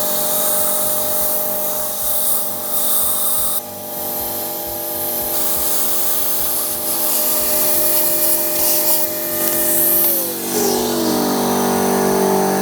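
Vacuum cleaner motor running steadily and winding down about ten seconds in, with bursts of compressed air hissing as dust is blown out of holes drilled in concrete.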